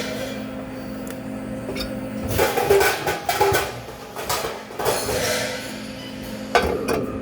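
Metal pieces clinking and clanking against each other in irregular knocks, bunched together a little past two seconds in and with a single sharp clank near the end, over a steady low machine hum.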